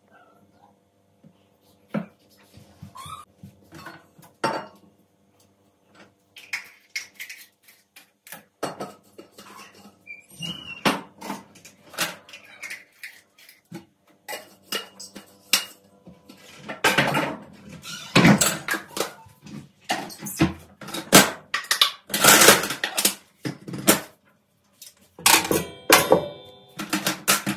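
Kitchen clatter of dishes and cutlery: scattered clinks and knocks at first, becoming a busy run of clattering about halfway through.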